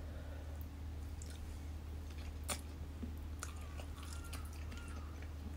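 A person chewing and biting a mouthful of instant noodles, quietly, with a few small clicks, the sharpest about halfway through, over a steady low hum.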